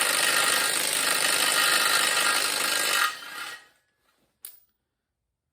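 A power tool runs steadily for about three seconds, then winds down and stops, followed by a single short click.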